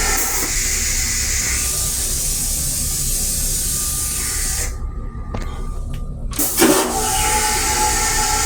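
Long Island Rail Road M3 railcar heard from inside its restroom: a steady running rumble and hiss with a faint hum. The hiss drops away for about a second and a half past the middle, then a short loud whoosh brings it back.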